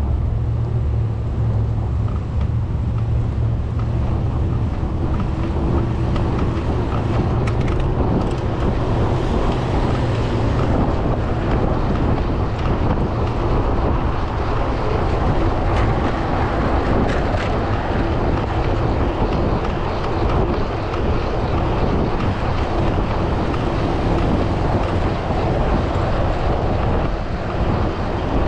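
Steady wind rushing over the microphone of a camera riding along with a bicycle, mixed with the noise of motor traffic.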